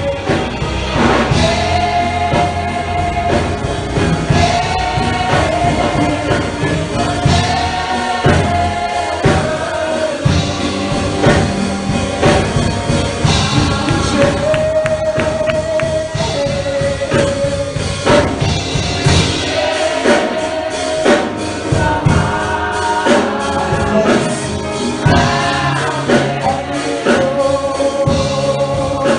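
Gospel music: a choir singing held notes over a band with drums.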